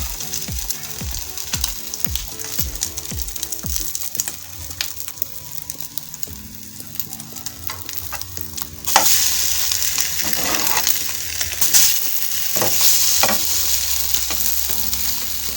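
Bread frying in hot oil in a pan, sizzling; the sizzle gets suddenly much louder about nine seconds in. Soft background music underneath.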